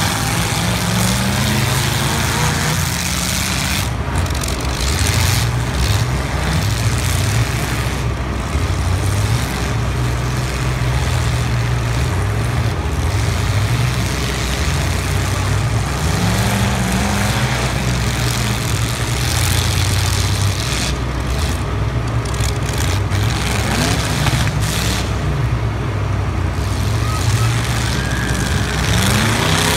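Several demolition derby cars' engines running and revving together, their pitch rising and falling again and again as the cars accelerate and back off across the arena.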